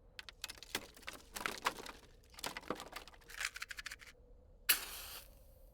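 Twigs and small branches being handled and snapped for a fire, a scatter of small dry clicks and crackles, then one short, louder rasping strike near the end as the lighting of the fire begins.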